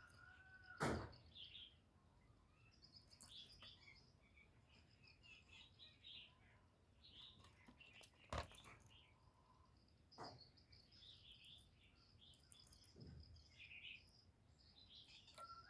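Faint, scattered chirps and short trills of small birds, broken by a few sharp clicks: one about a second in and two more past the middle.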